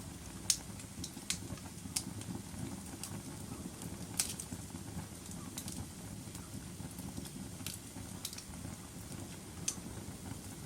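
Wood fire crackling in a fireplace: scattered sharp pops and snaps over a steady low rumble of burning, with the loudest pops about half a second in and about four seconds in.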